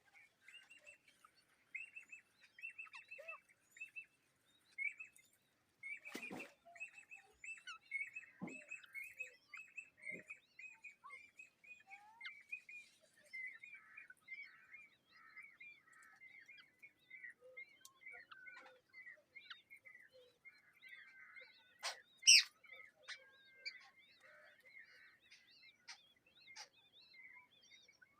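Birds chirping in rapid, repeated high notes without pause, with a sharp click about six seconds in and a louder knock about 22 seconds in.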